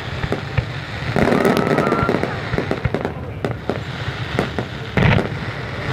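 Fireworks going off in a rapid, uneven string of sharp cracks and booms over a continuous rumble, with a heavier bang about five seconds in.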